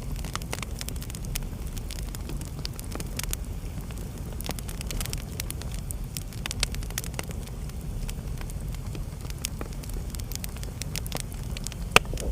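Wood fire burning in a fireplace: a steady low rumble of flames with scattered crackles and pops, one sharp pop near the end.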